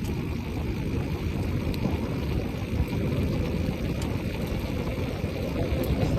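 Wind buffeting the microphone of a phone carried on a bicycle moving at speed: a steady, low, rushing rumble.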